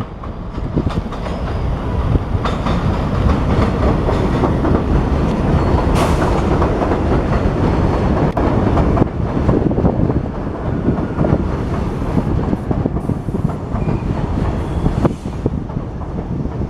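New York City subway train running past on the track, with steady wheel rumble and clickety-clack of the wheels over rail joints.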